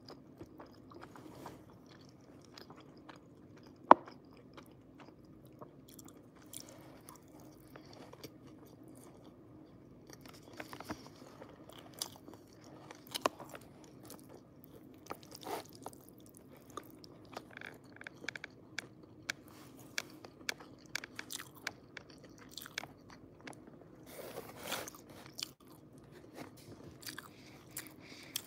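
Close-up chewing and mouth sounds of a person eating fettuccine and grilled chicken in cream sauce, with scattered small clicks as a metal fork works in a plastic container, over a faint steady hum. A single sharp click about four seconds in is the loudest sound.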